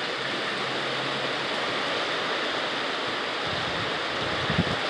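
Steady rain falling, a constant even hiss, with a brief low bump near the end.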